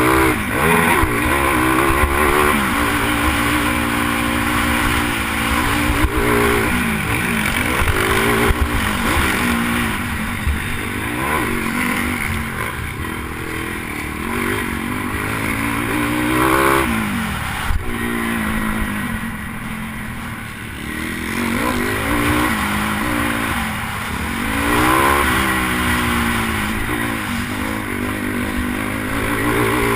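Pit bike's single-cylinder engine racing, its revs climbing and dropping again and again as the rider accelerates and backs off around the track, heard from a helmet-mounted camera with constant wind and rumble on the microphone.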